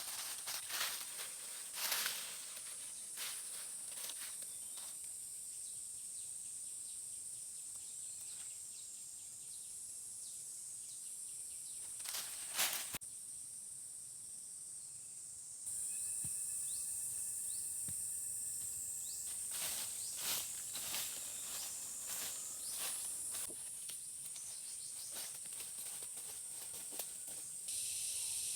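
Outdoor ambience: a steady high-pitched hiss with many scattered sharp clicks and snaps, two of them louder. A few steady, whistle-like tones sound briefly just past the middle.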